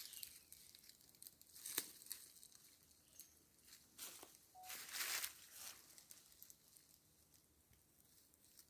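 Faint, irregular rustling and crackling, like footsteps in dry leaf litter, with a sharp click about two seconds in and a longer rustle around the middle.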